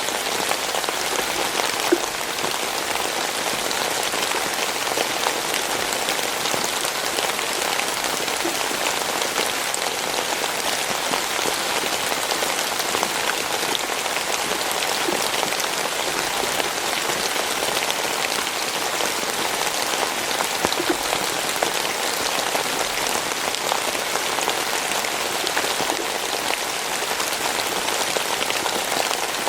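Steady rain falling, an even hiss of many drops with fine ticks of individual drops striking a surface.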